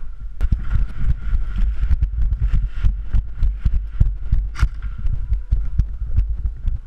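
Irregular low thumps, several a second, from footsteps and gear knocking against a body-worn camera as the player moves, with a few sharp clicks mixed in.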